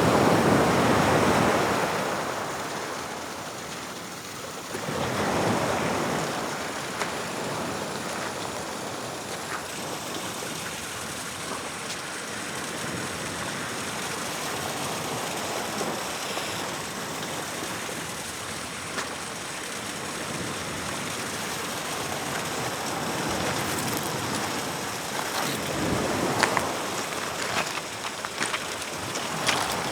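Atlantic surf breaking and washing up the shore: surges near the start, about five seconds in and again near the end, over a steady wash. Short crackling clicks come in over the last few seconds.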